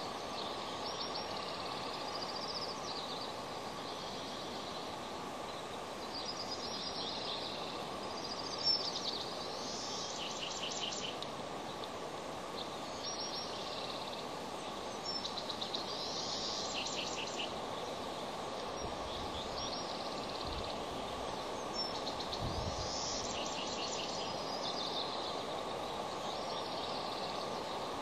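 High-pitched bird calls recurring every few seconds, several breaking into quick stuttering runs of short notes, over a steady background hiss.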